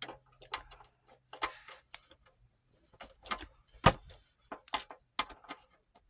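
Irregular small clicks and knocks from handling and working on a small 8mm film viewer, plastic and metal parts tapping and clicking, with one sharper knock a little before 4 seconds in. A faint low hum dies away in the first second.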